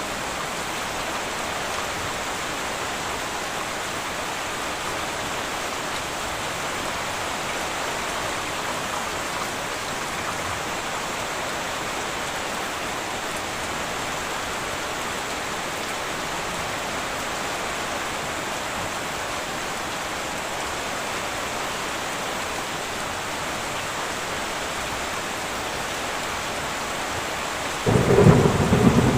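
Heavy rain falling steadily on a tin roof. Near the end a sudden loud, low thunder rumble breaks in over the rain.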